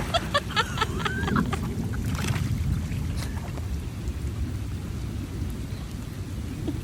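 Stormy weather outdoors: a steady, low rumbling noise of wind and rain, with a few faint chirps in the first second or so.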